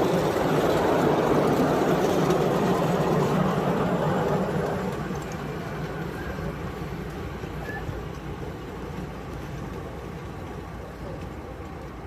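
A 7¼-inch gauge live-steam model of a Bulleid Q1 0-6-0 locomotive running with its train, its noise fading away after about four seconds as it moves off.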